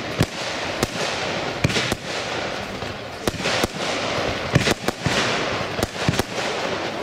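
Weco 'Barracuda' compound fireworks cake firing: a string of sharp shots and bursts at irregular spacing, roughly one or two a second, over continuous hissing and crackling.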